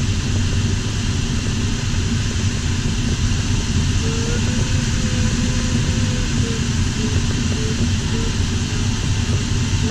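Steady rush of airflow in an LS4 sailplane's cockpit. About four seconds in, an electronic variometer tone comes in, first as a held note and then as short beeps about every two-thirds of a second.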